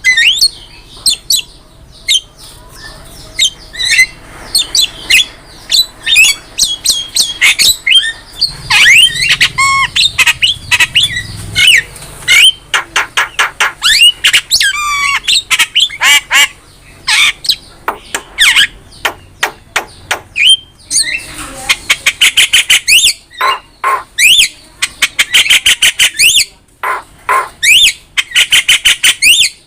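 Javan myna singing energetically: a long, varied run of harsh squawks, clicks, sweeping whistles and rapid chattering notes, with a fast run of repeated notes near the end.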